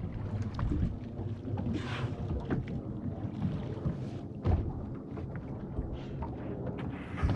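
Steady low rumble aboard a small motorboat: the idling engine under wind buffeting the microphone, with a few short hissy bursts, one about two seconds in, one midway and one at the end.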